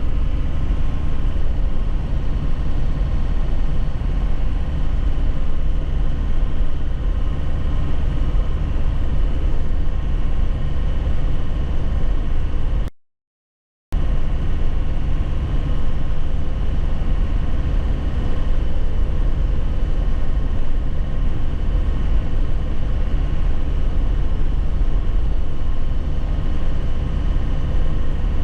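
2001 Nissan Cabstar light truck's engine running steadily with a heavy low rumble of road and cab noise, heard inside the cab while driving on a rough road. The sound cuts out completely for about a second near the middle.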